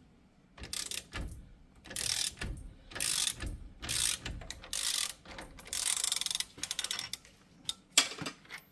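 Socket ratchet wrench clicking in repeated strokes as the bearing press tool is backed off the seized front wheel hub bearing, with a sharp metal knock near the end.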